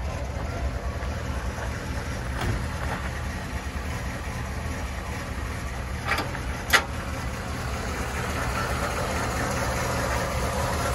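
1961 Chevrolet Impala's V8 idling smoothly, purring. A little past halfway, two sharp metallic clicks as the hood latch is released, and the engine grows slightly louder near the end.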